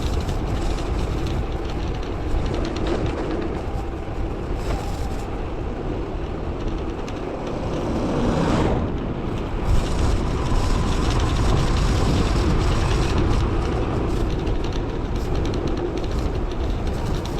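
Strong wind rumbling and buffeting on the microphone of a bicycle rider on a mountain road. About halfway through, a louder whoosh swells and falls away.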